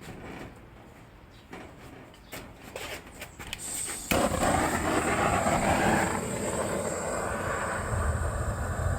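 A few faint clicks and handling sounds, then about four seconds in a gas torch flame starts abruptly with a steady hiss, firing into the firebox to light the kindling and wood.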